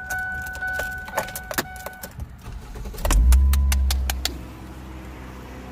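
Keys jangling and clicking in the ignition of a 2004–2005 Ford Focus, with a steady electronic tone that stops about two seconds in. About three seconds in, the four-cylinder engine cranks, catches and settles into a steady idle.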